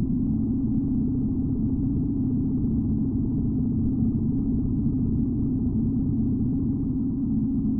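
1941 BMW R75 motorcycle's flat-twin engine running steadily under way, a low even drone.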